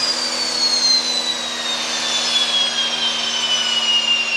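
Spey 205 jet engine on a test bed, a strong high whine falling steadily in pitch over its roar as the engine spools down; the reheat has not lit, held off by an amplifier module that monitors engine temperatures.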